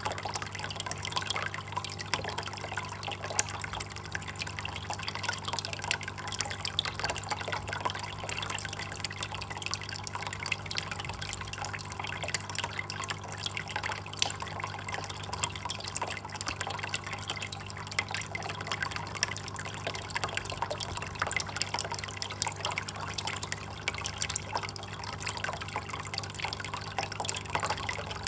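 Water trickling and dripping steadily, a dense continuous patter of small splashes, over a faint steady low hum.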